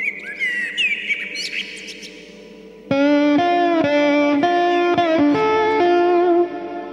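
Birds chirping over a soft sustained music bed. About three seconds in, an electric guitar takes over with a loud phrase of held notes and small slides that imitates the birdsong.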